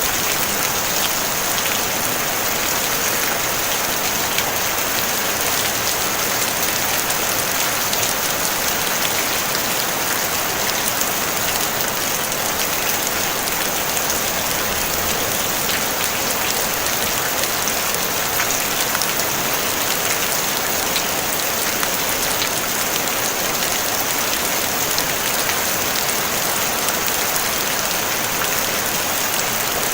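Steady rain on a tin roof: a dense, even patter of many fine drop ticks, with no thunder.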